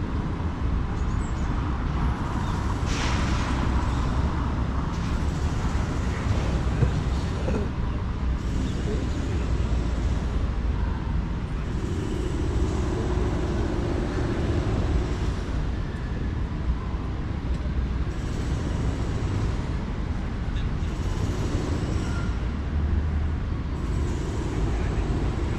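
City street traffic: vehicle engines running and passing in a steady low rumble, with a short hiss about three seconds in.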